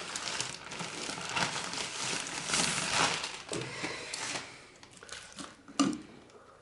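Packaging rustling as a food-waste disposer is lifted out of its box, dying away after about four seconds, then a single sharp knock near the end.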